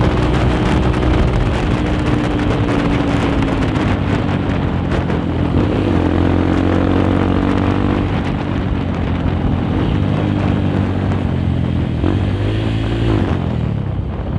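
Honda CRF150L's single-cylinder four-stroke engine running through a Nofifumi Torc aftermarket exhaust while riding, its pitch stepping down and up with throttle and gear changes. Near the end it rises briefly, then drops off.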